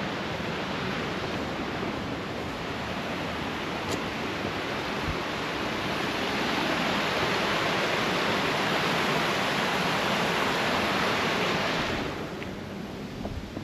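Rushing creek water, a steady noise that swells in the middle and falls away sharply near the end.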